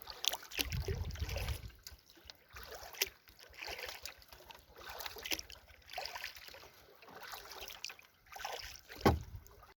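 Double-bladed kayak paddle stroking a canoe along on calm water, with splashes and drips rising and falling about once a second and small knocks of the paddle.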